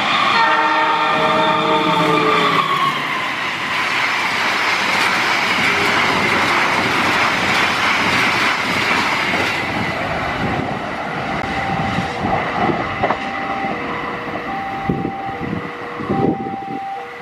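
A diesel locomotive's multi-note horn sounds as it rushes past at about 115 km/h, its pitch dropping as it goes by about two and a half seconds in. A loud rush of the passenger coaches follows, giving way to clicks of wheels over rail joints as the train recedes, with a repeating two-note tone near the end.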